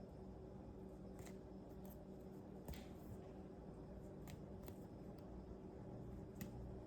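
Faint plastic sheet-protector pages of a trading-card binder being turned, a few soft ticks and swishes spaced a second or so apart, over a low steady hum.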